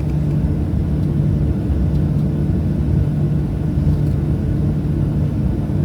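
Steady low drone of a Boeing 737-700 cabin, its CFM56 jet engines running, with a constant low hum over the rumble.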